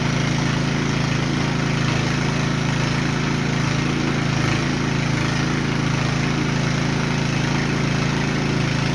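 An engine or motor running steadily at a constant pitch.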